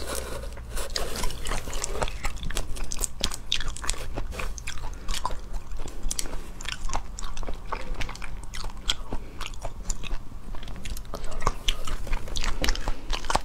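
Close-miked eating of raw red shrimp: chewing with many sharp, wet mouth clicks and smacks throughout, and shell being pulled apart by hand around the middle. A low steady hum sits underneath.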